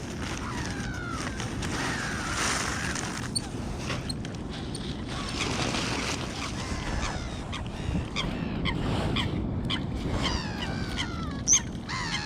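Waterbirds calling on a lake: many short squawking and honking calls over each other, coming thicker and faster in the last few seconds.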